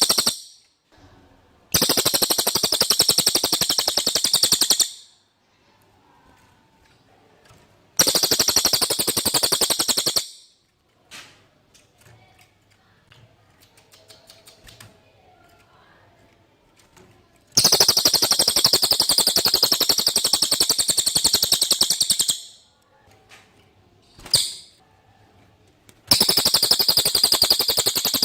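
Cililin songbird singing: four loud, very high, rapid buzzing trills of a few seconds each, separated by quiet pauses, with one short call between the last two.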